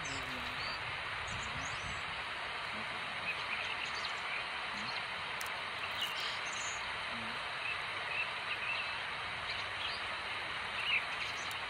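Scattered short bird chirps over a steady outdoor background hiss, with the chirps coming more often near the end.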